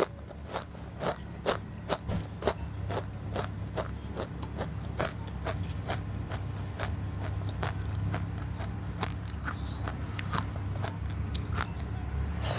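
A person chewing crunchy food close to the microphone, with sharp crunches about two to three times a second, over a steady low hum.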